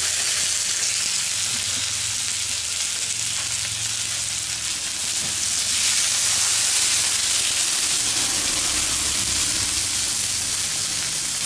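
Meat-and-vegetable skewers sizzling on a hot steel fire plate (Feuerplatte) as they are laid down and oiled. The steady sizzle gets louder about halfway through, as the second skewer goes on and oil hits the plate.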